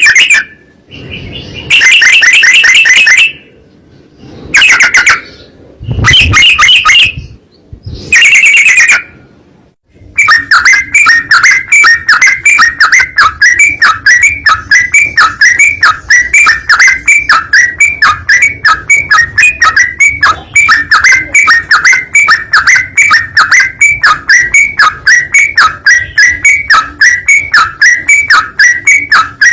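Loud birdsong, typical of a trucukan (yellow-vented bulbul): first several short bursts of fast, repeated chattering notes with gaps between them, then from about ten seconds in an unbroken run of quick, evenly repeated notes, about four or five a second.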